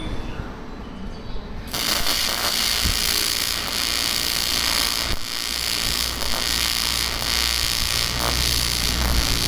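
TIG welding arc on aluminium, starting abruptly about two seconds in and then running steadily as a hiss over a low hum.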